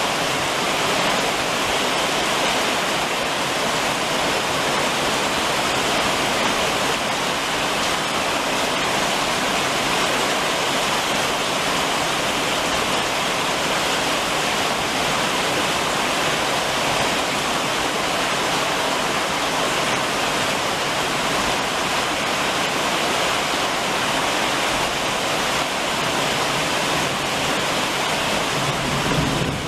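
Heavy summer rain drumming on a roof, an even, unbroken hiss of rain, with a brief low rumble near the end.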